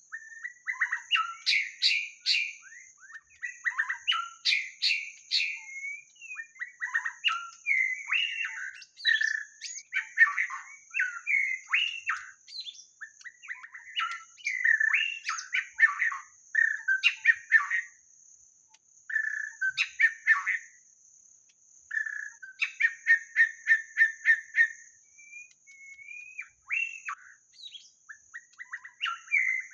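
White-rumped shama singing: a long run of varied, rich whistled phrases separated by short pauses, with a quick series of repeated notes a little after the middle.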